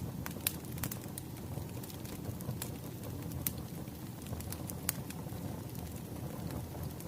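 Wood fire crackling, with irregular sharp pops and snaps over a low steady rumble of burning logs.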